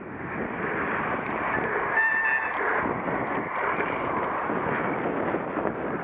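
Steady rushing noise of wind on the microphone and rolling over rough ground, with a brief high toot about two seconds in.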